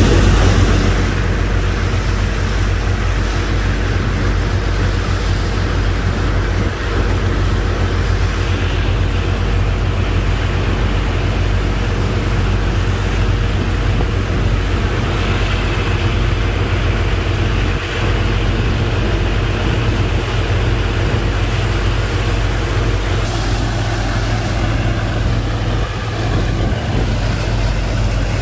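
Engine driving a sand-boat pump, running steadily under load, with a steady rushing noise over its low drone. It is a little louder for the first second.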